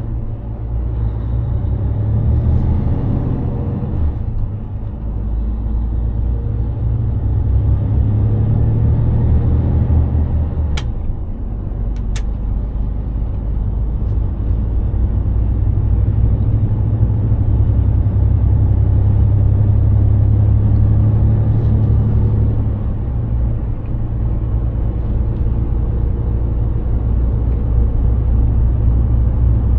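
Mercedes-Benz Actros heavy truck's engine and road noise while driving, a steady low drone that eases and builds again a few times. Two sharp clicks about 11 and 12 seconds in.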